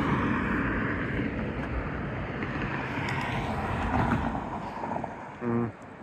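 Passing road traffic as a steady rushing noise with wind on the microphone, swelling slightly about two thirds of the way in. Near the end there is a brief low hum.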